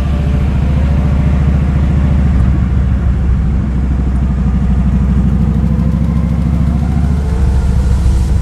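Kawasaki Vulcan 2000's big V-twin engine running with a steady, loud, pulsing exhaust note that shifts slightly about seven seconds in.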